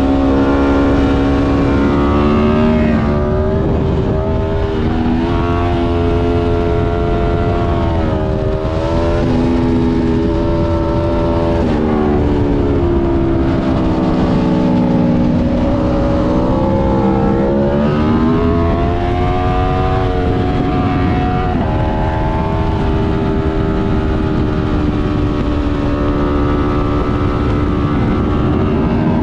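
2020 Aprilia Tuono Factory's V4 engine heard onboard at track pace, its pitch rising hard under acceleration and falling again into the corners several times over, with steady wind rush on the microphone.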